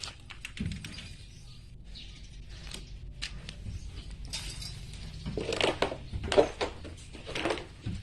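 A clatter of small hard objects: scattered clinks and knocks, busier and louder in the second half.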